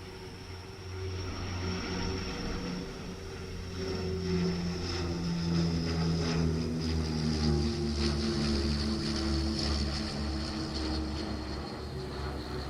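Rolls-Royce Dart RDa-10/1 turboprop engines of a YS-11FC: a high, steady turbine whine over a low propeller drone, growing louder to a peak around the middle and easing off toward the end, the whine sinking slightly in pitch.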